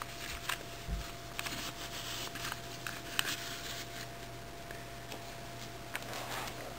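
Faint scattered taps, clicks and rustles of small toy props and a doll being handled, over a steady faint electrical hum.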